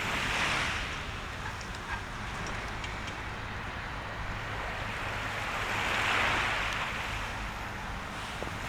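Sea waves washing onto the shore, swelling and fading twice, once near the start and again about six seconds in, over a steady low rumble of wind on the microphone. A few faint ticks sound in the first seconds.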